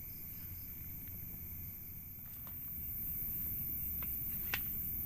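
Forest ambience: steady insect chirring over a low rumble, with a few small clicks and one sharp tap about four and a half seconds in.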